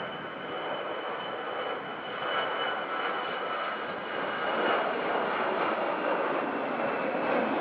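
Airliner's engines running, a steady rush with a thin high whine that slowly falls in pitch, growing louder about halfway through.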